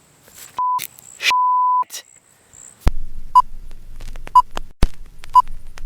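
Two censor bleeps, steady 1 kHz tones, one short and one longer. A sudden knock follows, then a short electronic beep repeating about once a second over a low hum, with another knock between the beeps.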